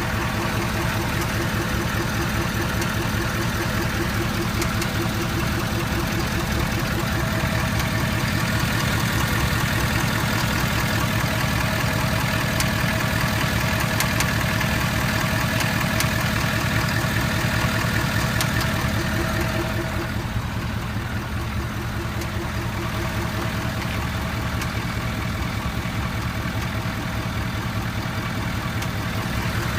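Ford 6.7-litre Power Stroke V8 turbodiesel idling steadily, with a light clicking over the engine sound.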